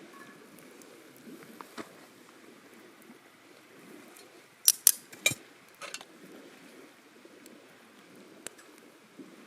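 Campfire cooking ambience with a quiet, steady background, broken about halfway through by a quick cluster of three sharp metal clinks and then a few lighter ones, as from cooking gear knocking on the iron griddle plate.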